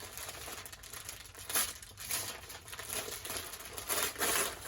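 Gift wrapping paper being crinkled and torn as a present is unwrapped, in uneven rustling bursts with the loudest about a second and a half in and near the end.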